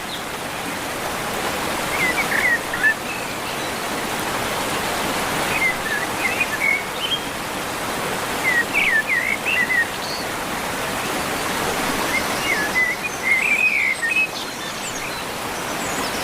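Steady rushing of a stream or waterfall, with birds chirping in short clusters every few seconds.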